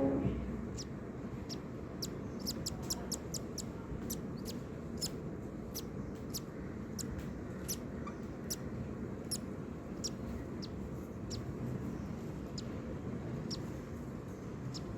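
Cockatiel chick begging while its father feeds it: a run of short, high-pitched peeps, a few a second, over a steady low background hiss.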